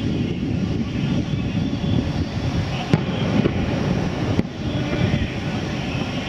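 Aerial firework shells bursting at a distance: a sharp bang about three seconds in, then a few more, over a steady low rumble.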